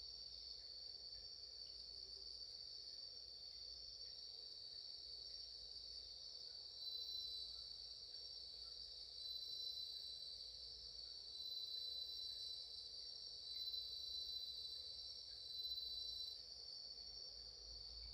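A chorus of insects singing steadily in a high, continuous chirr. In the second half a louder insect joins in with about five trills, each lasting a second or so with short gaps between them.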